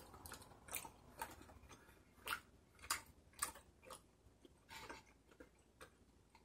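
Faint, close-up chewing of chewy rice cakes, made up of irregular wet mouth clicks and smacks, about one or two a second.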